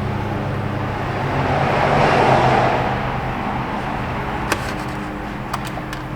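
A steady low hum with the whoosh of a passing vehicle that swells to a peak about two seconds in and fades away, followed by a few light clicks.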